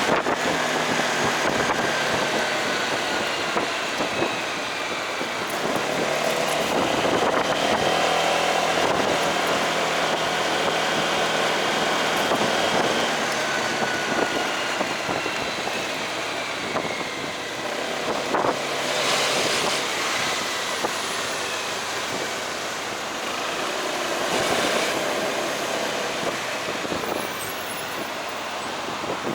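Motorcycle engine running while riding in traffic, its pitch drifting up and down with speed, under steady road and wind noise. About two-thirds of the way in, a brief swell of noise sounds like another vehicle passing.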